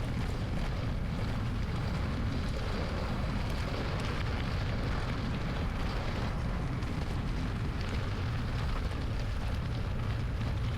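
Steady wind rumble on the microphone over tyre noise from a bicycle rolling along a gravel forest road, sped up to double speed.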